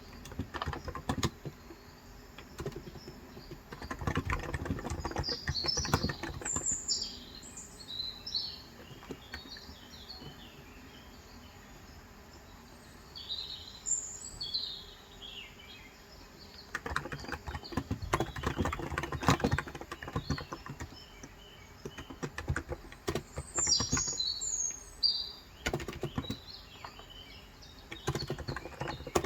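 Typing on a Cox Endeavor electrostatic capacitive keyboard with 35 g keys, in bursts of rapid keystrokes separated by pauses. Birds are chirping in short, high calls alongside the typing.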